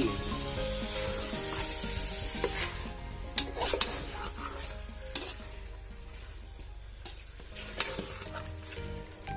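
Chicken pieces sizzling in an oily onion-and-masala base in a metal pot while a ladle stirs them, with a few sharp scrapes and knocks of the ladle against the pot. The sizzle is loudest in the first few seconds and then eases.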